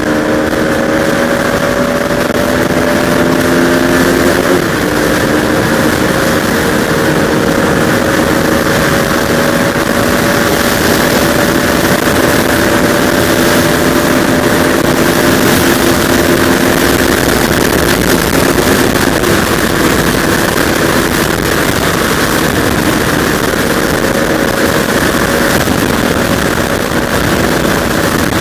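Motorcycle riding at speed heard from a helmet camera: strong wind rush on the microphone over a steady engine note, with a slight shift in engine pitch about five seconds in.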